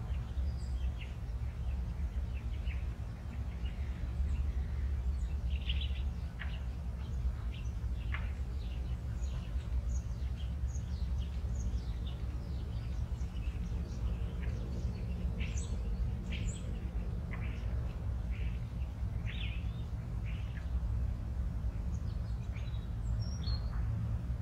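Birds chirping, many short high calls scattered throughout, over a steady low rumble.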